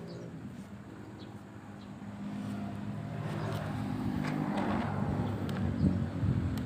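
Komatsu PC200-7 excavator's diesel engine running, louder and busier from about two seconds in, with a few sharp metallic clicks and knocks over it.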